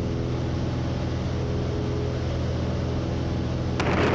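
Single-engine Stinson's piston engine droning steadily, heard inside the cockpit as a constant low hum.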